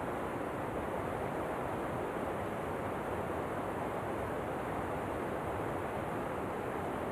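Waterfall ambience: a steady, even rush of falling water that does not change.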